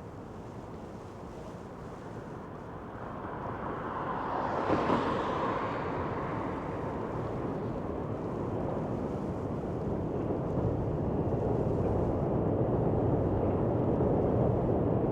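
Street traffic: a vehicle passes, its noise swelling to a peak about five seconds in and fading, then a low rumble builds toward the end.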